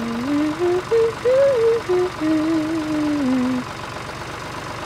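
Tractor engine idling with a steady, even chug. A short stepping tune in two parallel pitches plays over it, ending about three and a half seconds in.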